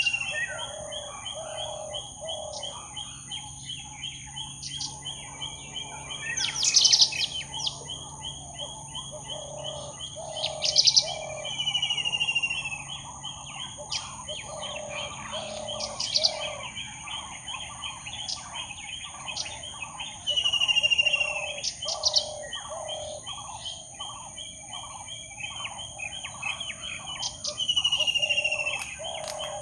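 A mixed chorus of jungle birds: repeated falling whistled phrases, sharp loud bursts of chirps, and a steady run of low cooing notes. Behind them is a constant high-pitched drone.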